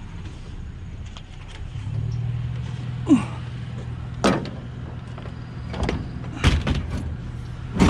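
Vehicle engine idling with a steady low hum, over which come several sharp metal knocks and clunks as an aluminum garage door opener rail with its motor is handled and loaded into the vehicle. The loudest knock comes near the end.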